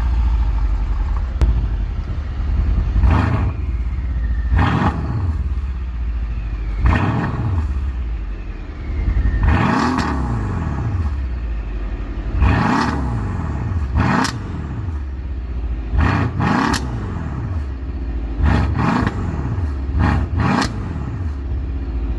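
Mercedes-AMG CLS 63 S's twin-turbo V8 idling and being blipped about a dozen times, each rev rising and falling quickly, some in quick pairs in the second half, several ending with sharp cracks.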